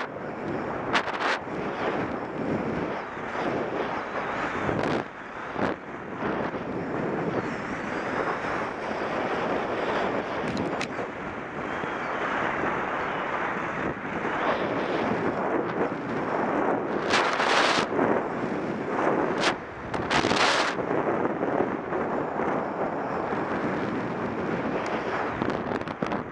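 Strong wind buffeting the microphone: a steady rushing with gusty surges, and sharper, brighter blasts about 17 and 20 seconds in.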